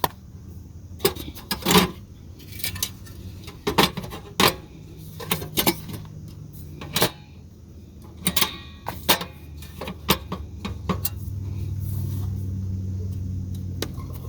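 Cookware and kitchen items being handled: a string of clinks, clacks and knocks as things are set aside and pots and pans are moved. A low steady hum swells in over the last few seconds.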